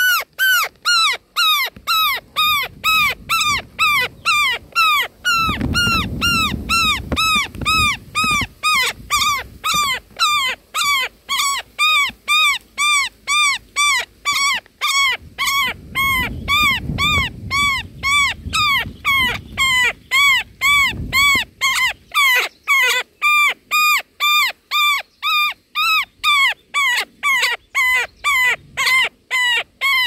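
Indian roller nestling giving repeated begging calls, short notes that each rise and fall in pitch, about two a second, with a low rumble underneath twice.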